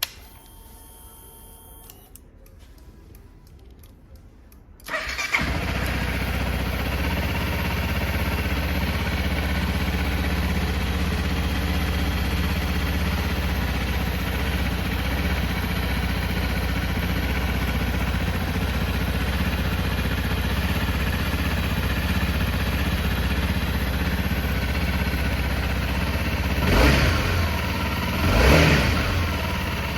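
Honda CRF250M's single-cylinder engine, after about five seconds of faint whirring and clicking, starts abruptly and settles into a steady idle. It is blipped twice near the end.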